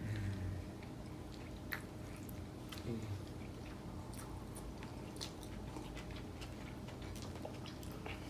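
People chewing and eating takeout food close to the microphone, with scattered small clicks and mouth smacks every second or so.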